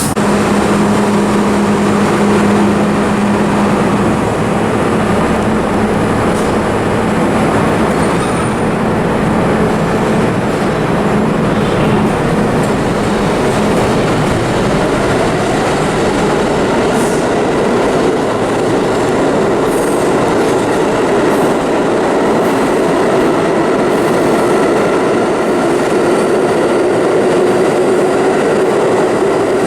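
Vintage subway train running on the track: a continuous rumble and rattle of wheels on rail, with a low motor hum in the first few seconds and a higher hum building toward the end.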